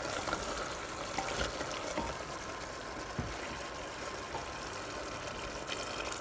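Chicken pieces sizzling and bubbling in their own released juices in a pressure cooker pot, a steady wet hiss.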